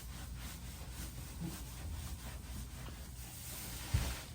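A rag rubbing over a surface in repeated strokes, wiping it down with acetone before epoxy work, with one low knock near the end.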